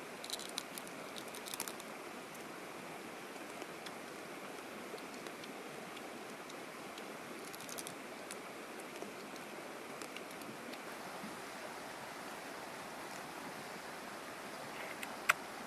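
Cooked crab shell crunching and crackling in short bursts as it is bitten and chewed, over a steady background hiss. A single sharp click near the end is the loudest sound.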